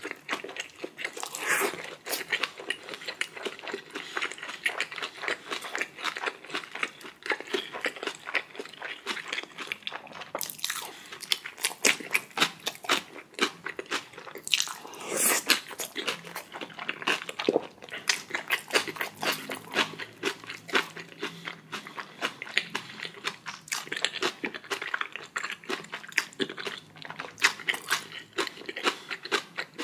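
Close-miked eating: a person biting and chewing, a continuous run of short crisp and wet mouth noises, with a couple of longer, louder bursts about a second and a half in and about fifteen seconds in.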